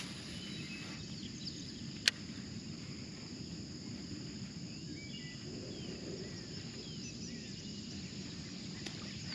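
Pond-side ambience: a steady high insect chorus with faint bird chirps, over a low steady noise. A single sharp click about two seconds in.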